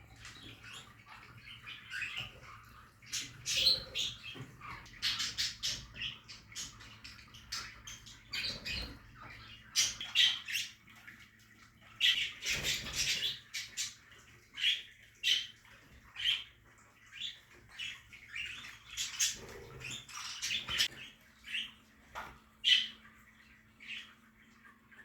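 A colony of budgerigars chirping and squawking, many short, high calls overlapping throughout, with a faint steady hum underneath.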